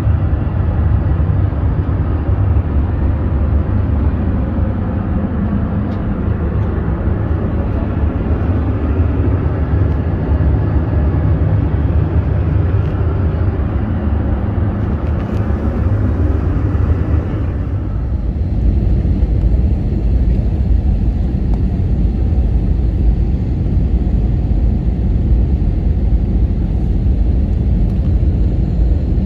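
Steady cabin noise of an Airbus A321 in flight: a loud airflow and engine rumble. About eighteen seconds in, the hiss drops away and the sound turns to a deeper rumble.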